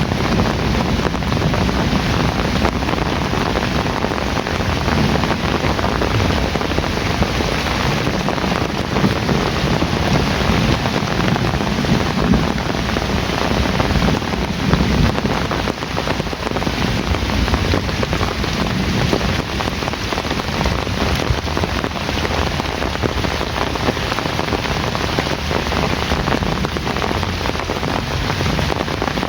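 Heavy rain falling steadily, with a low rumble swelling near the start and again about halfway through.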